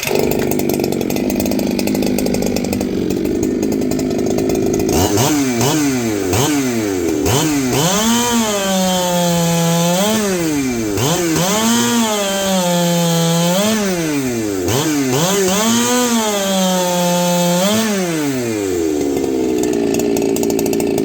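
Big two-stroke chainsaw with a free-flowing muffler running loudly: steady for a few seconds, then revved up and down about six times, the pitch rising and dropping back each time, then steady again. Its throttle response is pretty snappy for a big saw.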